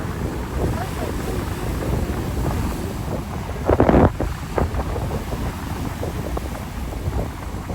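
Wind buffeting the microphone over the noise of a rough sea, with one louder surge about four seconds in.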